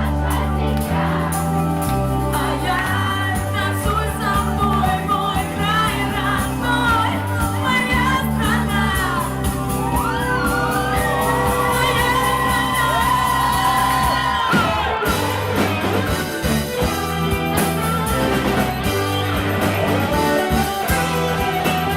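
Live pop-rock band playing a song with a lead vocalist singing over it, including a long held note about halfway through.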